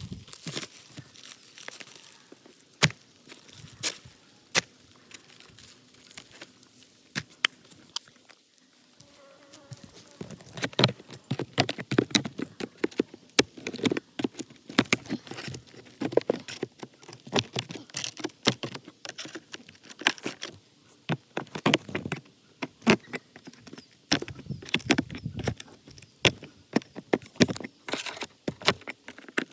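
Irregular sharp clicks, taps and scraping from hands-on work on a shingle roof, sparse at first and much busier from about ten seconds in.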